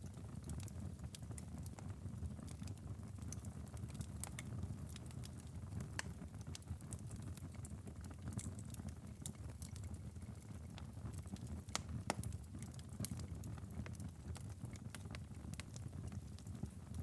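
Fireplace fire crackling: irregular sharp pops and snaps over a low steady rumble of the flames, with one louder pop about twelve seconds in.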